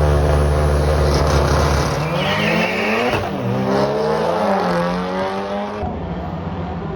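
Drag racing cars accelerating hard, engines running at high revs. The pitch climbs, drops sharply about three seconds in as if through a gear change, and climbs again.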